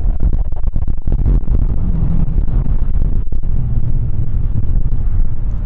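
Wind buffeting the phone's microphone: a loud, rough, rapidly fluctuating rumble with most of its weight in the low end.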